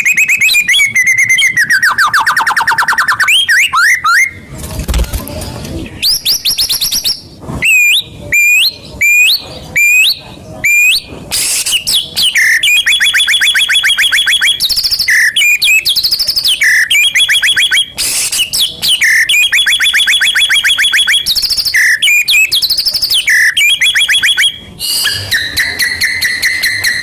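White-rumped shama (murai batu) singing loudly in long phrases of fast trills and rapid repeated notes, with a run of short upswept whistles about a third of the way in.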